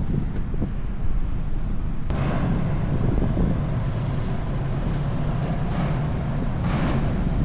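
A steady low vehicle rumble with wind buffeting the microphone; the noise shifts abruptly about two seconds in and swells in gusts near the end.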